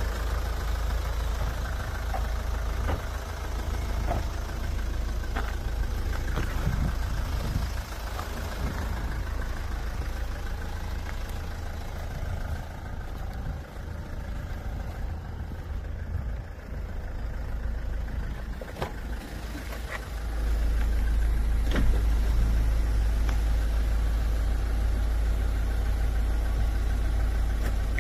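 Hyundai Tucson ix's 2.0-litre R diesel engine idling steadily, with a few light clicks over it. The low rumble gets louder and fuller about two-thirds of the way through.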